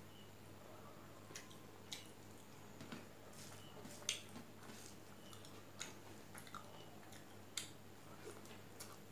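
Faint eating sounds: chewing a mouthful of rice and fish curry eaten by hand, with sharp wet mouth clicks and smacks scattered through, the loudest about four seconds in, and fingers squishing rice on a steel plate.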